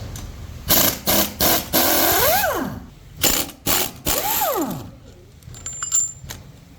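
Metal tools working on a truck's rear axle parts: a run of sharp metallic clicks and clatter, with two short whirs that rise and then fall in pitch, then a few lighter ticks near the end.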